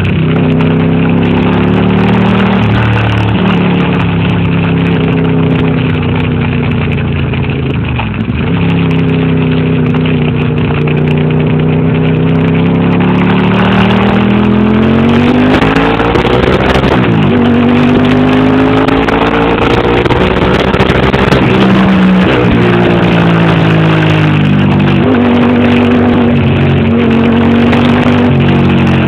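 Ducati motorcycle engine under way, its pitch climbing as it accelerates and dropping back several times at gear changes or when easing off, with wind rushing over the microphone.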